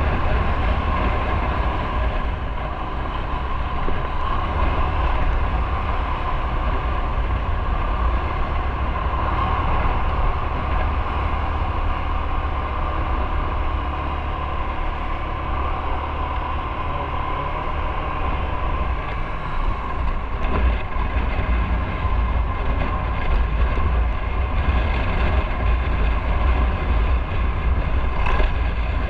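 Motorcycle on the move: engine and road noise running steadily, with a strong low rumble under it.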